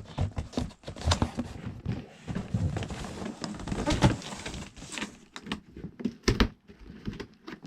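An RC truck kit's box and packaging being handled and opened: irregular rustling, clicks and knocks, with a couple of sharper knocks near the end.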